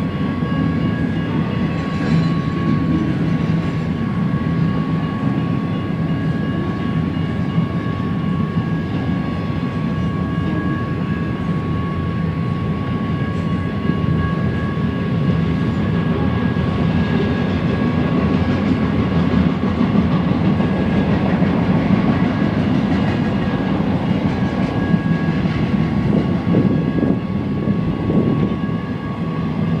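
Intermodal freight train cars rolling past, steel wheels on rail making a steady rumble, with a faint high steady ring over it.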